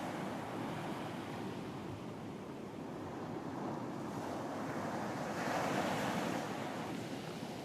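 Ocean waves washing onto a beach, a steady surf wash with one wave breaking and swelling louder a little past halfway before easing off.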